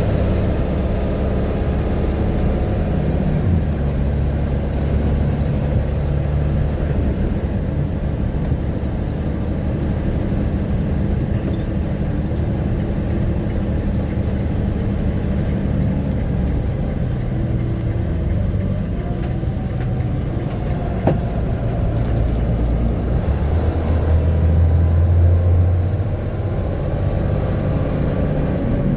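A vehicle engine running with a steady low hum, its pitch stepping up and down every few seconds; it grows louder for a couple of seconds near the end.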